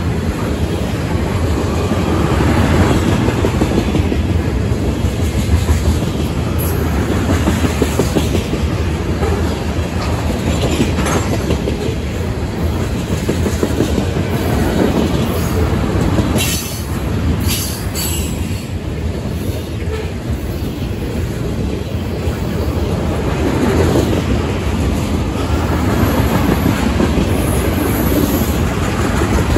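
Freight train of loaded ethanol tank cars rolling past, steel wheels rumbling and clicking over the rail joints. A few sharp clicks stand out about sixteen to eighteen seconds in.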